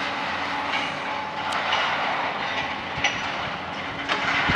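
Approaching diesel train running steadily, with a couple of sharp clacks from the wheels over the rails about three and four seconds in.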